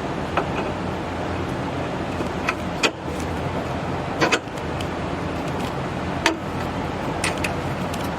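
A handful of sharp clicks and clinks from hand work on a car's front suspension, over a steady background hum.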